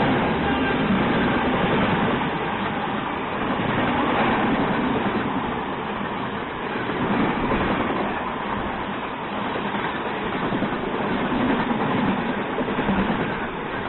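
A MEMU passenger train running along the track, heard from inside a coach: a steady noise of wheels on rails and a moving carriage.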